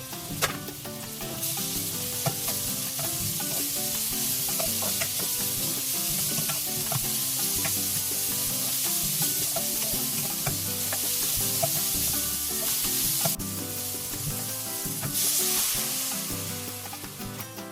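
Food sizzling and frying in a hot oiled pan while it is stirred, a steady hiss that cuts off suddenly about 13 seconds in, returns for a moment, then fades. Soft background music runs underneath.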